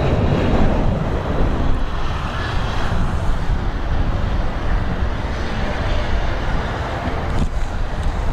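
Airliner's jet engines running loud, a steady rushing noise over a deep rumble.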